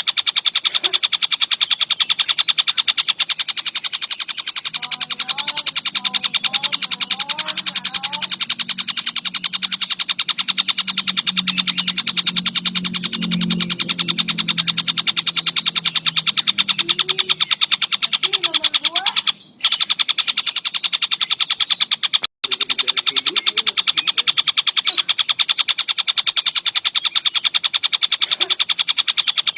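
Javan kingfisher (tengkek buto) giving a dense, nonstop high rattling trill of very fast repeated notes. The trill breaks off briefly twice, about two-thirds of the way in. Fainter short chirps sound underneath.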